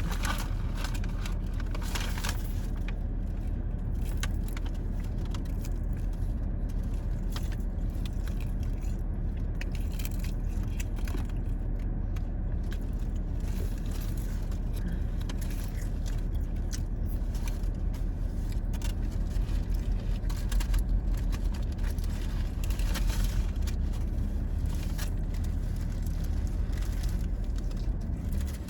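Steady low rumble of a car idling, with scattered small clicks and rustles of someone eating fast food from its wrappers.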